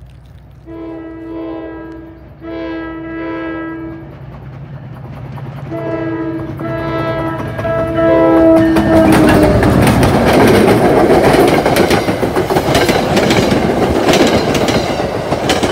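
NJ Transit train's horn sounding for a grade crossing: two long blasts, a pause, then a longer sounding held until the locomotive reaches the crossing. From about eight and a half seconds in, the locomotive and coaches pass close by with a loud rumble and rapid clicking of wheels over the rail joints.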